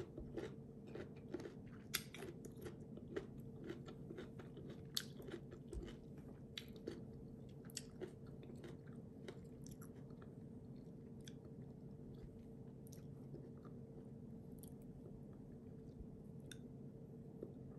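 Crisp crunching and chewing of raw green mango slices, the crunches coming thick over the first half and sparser later, over a steady faint hum.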